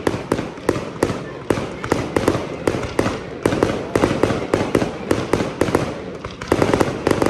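Fireworks going off in a rapid, irregular string of sharp bangs and crackles, several a second without a break.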